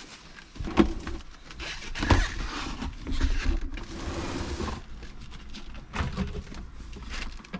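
Handling noises as cleaning things are picked up and set down: several separate knocks and clatters, with a stretch of hissy noise about halfway through.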